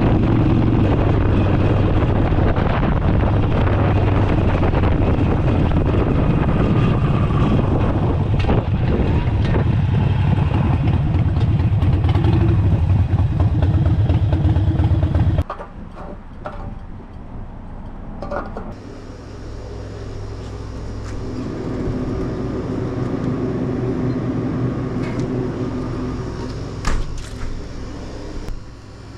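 Harley-Davidson Forty Eight's air-cooled 1200 cc V-twin idling steadily while it warms up, cutting off suddenly about halfway through; a quieter steady hum follows.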